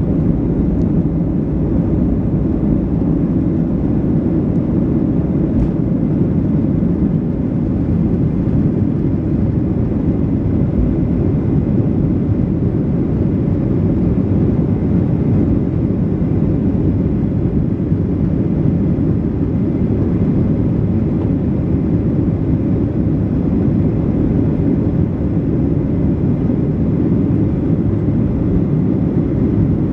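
Boeing 737-700 jet airliner's CFM56 engines at takeoff: a steady, loud, low rumble that holds an even level throughout.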